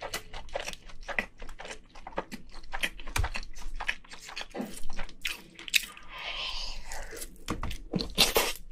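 Close-miked chewing: wet mouth clicks and crackly crunching as a mouthful of rice from a king crab shell is eaten. Near the end a spoon scoops in the crab shell.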